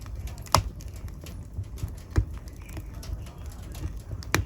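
Wood fire in a fireplace crackling over a low rumble of flame, with irregular small ticks and three louder sharp pops: about half a second in, a little after two seconds, and near the end.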